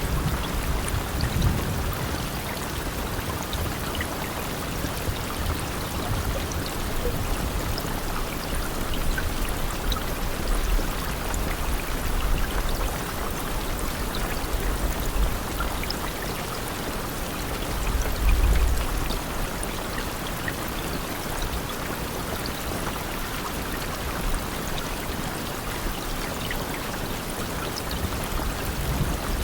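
Steady rain, a continuous even hiss of drops, with a few low rumbles, the strongest about eighteen seconds in.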